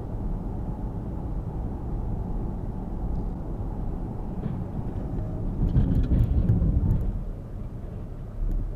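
Steady low road and engine rumble of a car driving, as picked up by a dashcam, swelling louder for a second or so about six seconds in.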